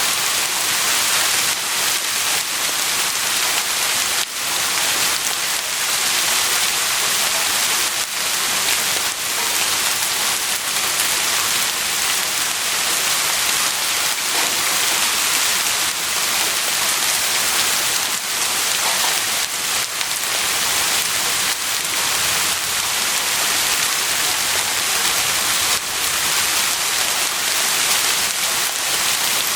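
Heavy rain falling steadily on a surface: a dense, even hiss, with scattered individual drop impacts.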